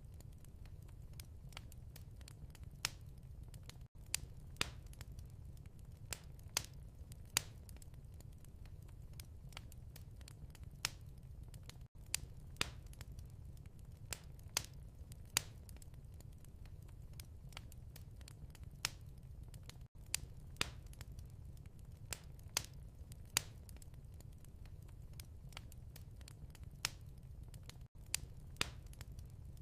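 Fireplace ambience: wood fire crackling and popping with irregular sharp snaps over a low, steady rumble of the flames. There are brief dips in the sound about every eight seconds.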